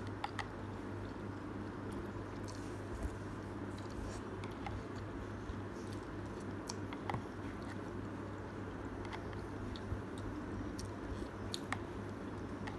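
Close-miked eating of udon noodles: chewing and small mouth sounds, with scattered short clicks of chopsticks against a plastic container, over a steady low hum.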